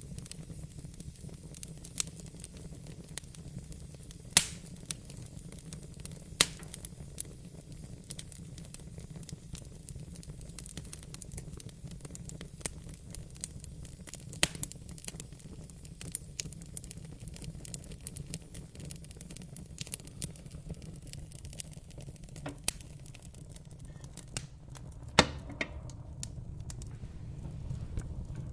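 Wood fire crackling in a fireplace: a steady low rumble of flames with irregular snaps and pops, the sharpest at about four, six and twenty-five seconds in.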